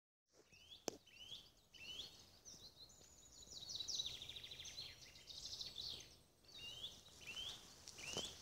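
Wild birds singing: short hooked chirps repeated about twice a second, with a rapid trill from about three to six seconds in. A single sharp click about a second in.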